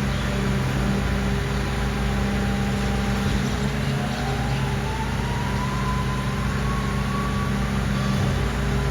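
Mercedes-Benz Arocs garbage truck's diesel engine running steadily, with a thin whine that rises slowly in pitch from about a third of the way in.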